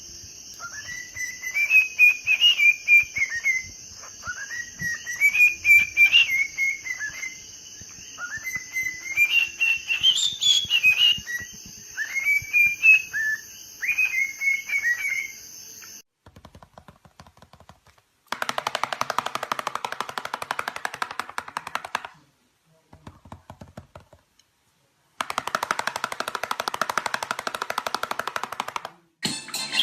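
A pet parrot whistling a run of five short, rising, warbling phrases. About halfway through this gives way to a rapid, dry clicking rattle that comes in two stretches of about four seconds each.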